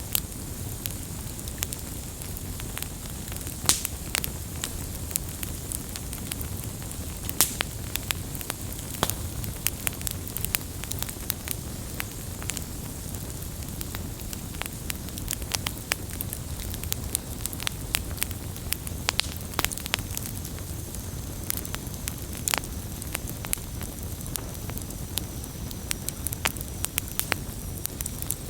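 Wood campfire burning, crackling with irregular sharp pops over a low, steady rumble of the flames.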